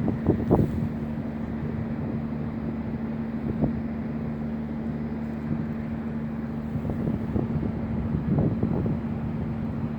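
Wind buffeting the microphone in gusts, strongest just after the start and again near the end, over a steady low hum.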